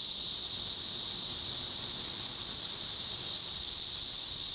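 Chorus of 17-year periodical cicadas: a loud, steady, high-pitched drone that does not break.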